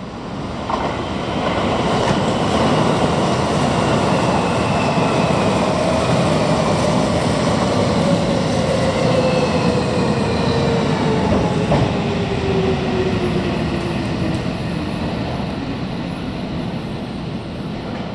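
Tobu 70000-series electric train pulling into the platform and braking to a stop: wheels rumble on the rails while the motor whine slides steadily down in pitch as the train slows, and the noise eases off near the end.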